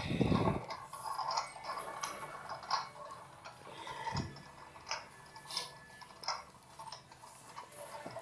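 LG mini washing machine running its rinse cycle: a low motor hum starts about every four seconds as the drum turns one way and then the other, with irregular clicks and ticks throughout.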